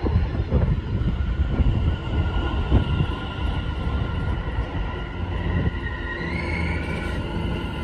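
London Overground Class 710 electric multiple unit running past along the platform. Its wheels rumble and knock on the rails over a faint steady traction-motor whine.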